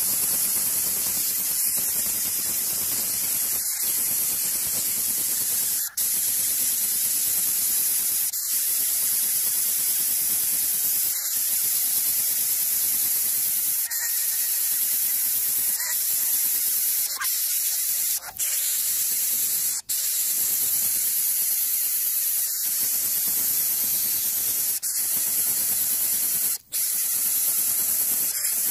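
Steady, loud static-like hiss, broken by short dropouts every two to three seconds.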